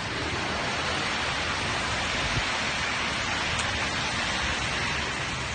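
Rain falling steadily, an even, continuous hiss.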